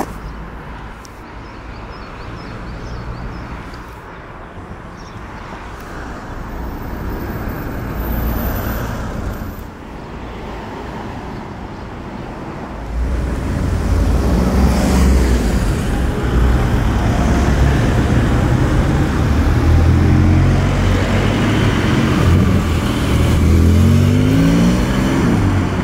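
Sports car engine running close by. It gets loud about halfway through and rises in revs several times near the end. Before that there is only quieter street noise.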